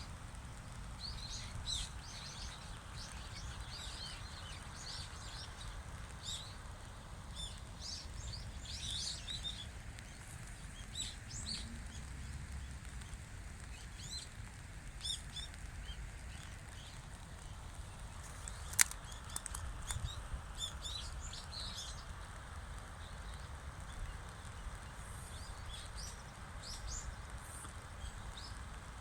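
Small birds chirping in short, scattered calls over a low steady rumble, with one sharp click about two-thirds of the way through.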